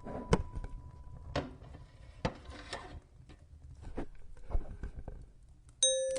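Wood fire crackling in a fireplace, with irregular sharp pops and snaps. A held musical tone fades out in the first second, and a bell-like chime note rings out near the end.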